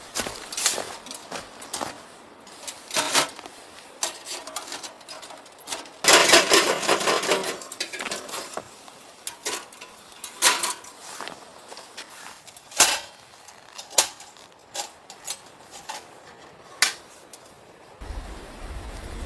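Irregular clicks, knocks and clatter of small hard objects being handled, with a louder noisy stretch of about two seconds around six seconds in. A low rumble comes in near the end.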